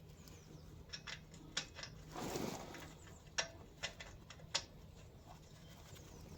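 Hand tools clinking on metal while a tight bolt on an engine's fuel tank is worked: a few irregular sharp clicks and knocks, with a short rushing scrape a little after two seconds.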